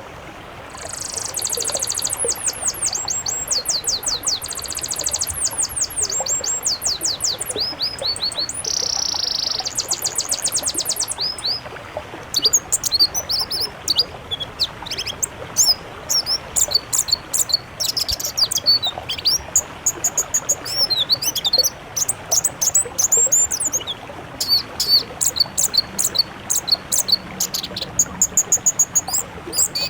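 Caged songbirds singing loudly, a mix of several species' songs. The first half is long trains of rapid, high-pitched repeated notes. From about twelve seconds in the song breaks into busy, varied sharp chirps and whistles.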